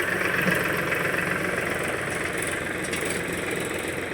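Powertrac 50 tractor's diesel engine running steadily at low revs.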